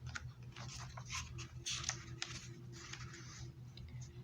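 Paper rustling and light clicks of a book being handled, as when a page is turned, over a faint steady hum.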